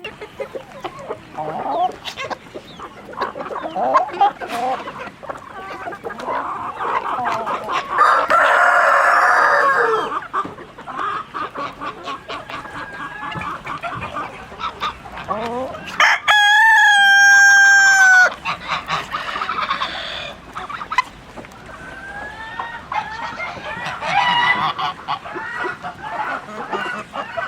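A flock of chickens clucking and calling continuously. A rooster crows once, a sustained call of about two seconds that starts a little past halfway and dips in pitch at its end. A harsher, loud squawk comes about eight seconds in.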